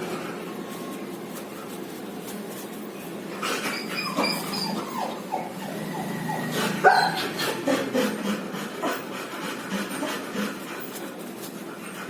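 A baby pigeon (squab) making begging squeaks while being fed: many short high calls that fall in pitch. Between them come scattered sharp clicks and rustles from the feeding.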